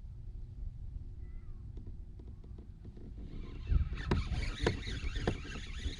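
Low wind rumble on the microphone, then from about three and a half seconds in a run of sharp clicks and rattling.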